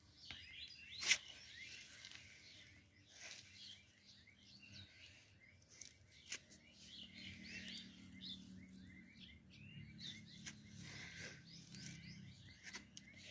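Small birds chirping continually in the background. A few sharp clicks stand out, the loudest about a second in.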